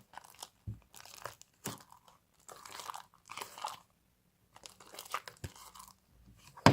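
Fluffy slime of glue, shaving foam and borax glycerin being stirred hard in a bowl: irregular sticky squishes and clicks as the mixture starts to bind.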